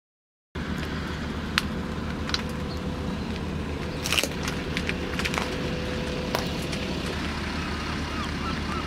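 Car engine idling with a steady low rumble, broken by a few sharp clicks and rattles. It starts suddenly about half a second in.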